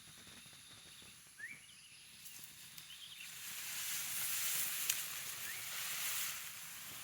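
A few short rising bird chirps over quiet outdoor background. From about three seconds in there are a few seconds of dry rustling hiss with a sharp click in the middle.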